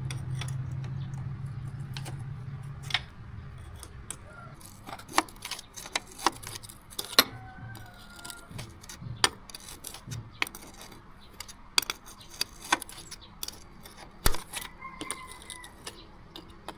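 A low engine hum dies away over the first three seconds. Then come scattered light metallic clicks and clinks of small parts and tools being handled, with a few faint high chirps.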